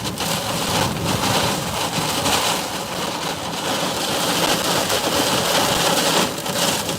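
Heavy wind-driven rain and strong storm gusts battering a truck, heard from inside the cab as a loud, dense, surging rush.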